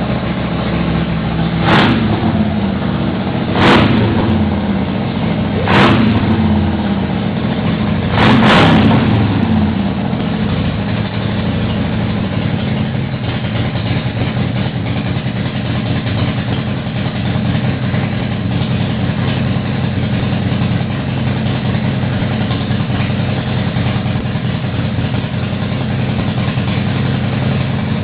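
Custom Harley chopper's V-twin engine idling on its first run after the build. The throttle is blipped four times in the first nine seconds, each rev rising and falling back, and then the engine settles into a steady idle.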